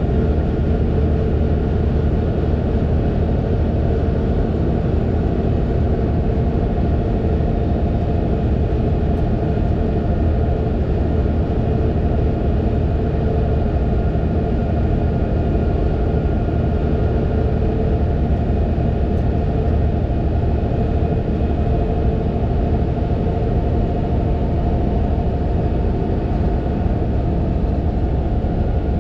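Fendt 936 Vario tractor engine running steadily with a low rumble, its pitch and load unchanging, with a few faint steady whining tones above it.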